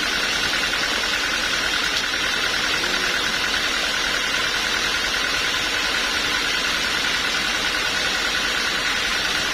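Sawmill machinery engine running steadily with no load changes, with a constant high whine that pulses rapidly.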